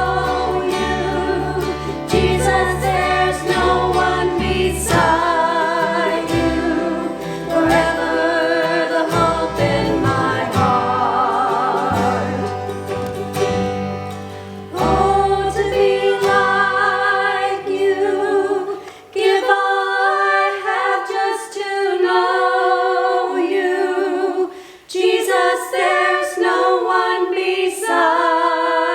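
Voices singing together, accompanied by guitar and a low instrumental backing. About halfway through the accompaniment drops out and the singers go on unaccompanied.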